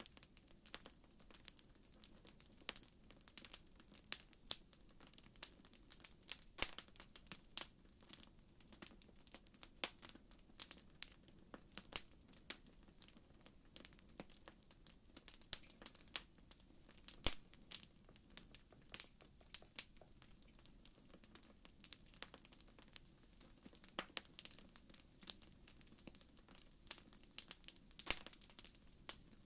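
Wood fire crackling: irregular sharp pops and snaps, several a second, over a faint low rumble.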